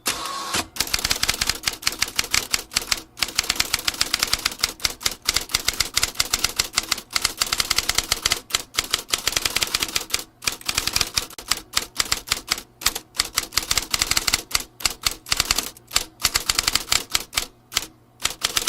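Vintage typewriter being typed on steadily: a fast, continuous run of key strikes, several a second, broken by a few brief pauses.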